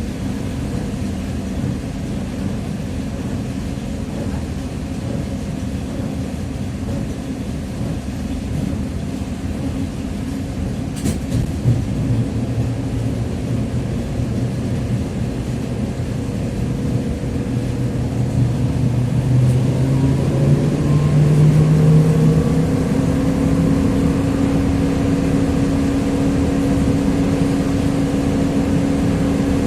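TrolZa-5275.05 "Optima" trolleybus accelerating, with a sharp click about eleven seconds in. After the click comes a drivetrain whine from its DK-213A traction motor and Ishimbay rear axle. The whine rises in pitch in steps as the trolleybus gathers speed, then holds steady.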